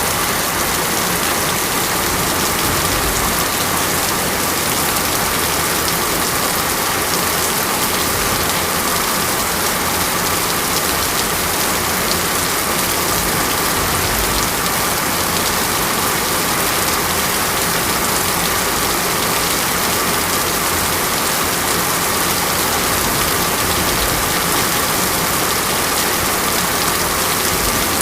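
Steady rain falling: a dense, even hiss of drops that holds constant without letting up.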